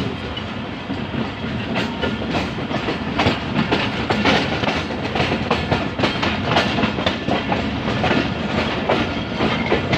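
Passenger train running along the track, its wheels clattering over the rail joints in a constant run of short knocks over a steady rumble, heard from an open door or window of the coach.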